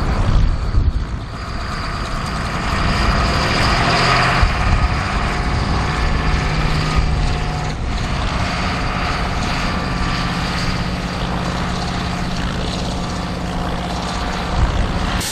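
Versatile 145 four-wheel-drive tractor's engine running steadily under load as it pulls a cultivator across the field in a higher gear.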